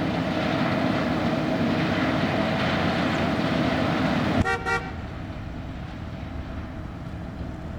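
A 1977 Pontiac Grand Prix running loudly, then two quick honks of its horn about four and a half seconds in, after which the engine sound drops to a quieter, steady run.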